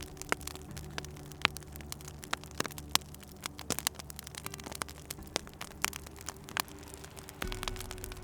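Wood fire crackling, with irregular sharp pops and snaps of varying loudness over a low steady hum.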